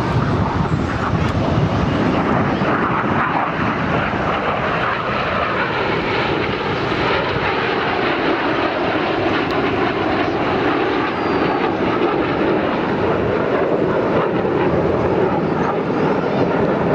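Jet engine noise from the Red Arrows' BAE Hawk T1 jets, with their Adour turbofans, flying their display: a loud, steady noise with no breaks.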